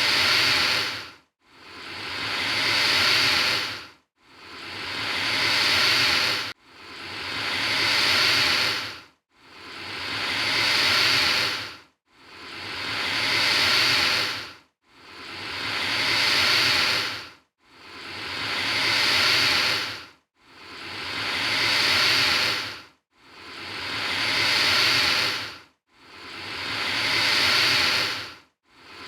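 Alligator hissing: the same long breathy hiss repeated over and over, about every two and three-quarter seconds, each one swelling and then cutting off abruptly.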